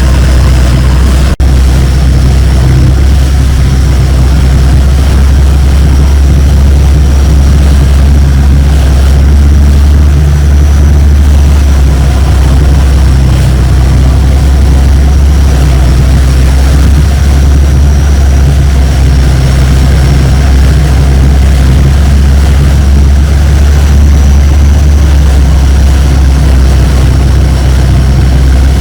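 Longtail boat engine running steadily: a loud, even, low drone with a faint high whine above it, and a short click about a second in.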